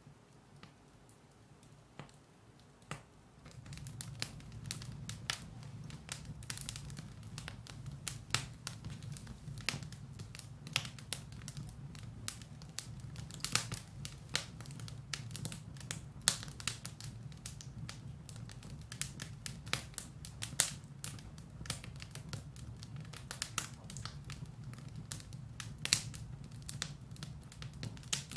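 Firewood burning in a fireplace, crackling with frequent sharp pops over a steady low rumble of the flames. For the first three seconds or so it is quieter, with only a few scattered pops.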